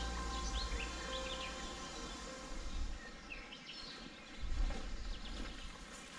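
Songbirds chirping in a summer meadow: short rising calls keep coming throughout. There are bursts of low rumble near the start and again about four and a half seconds in.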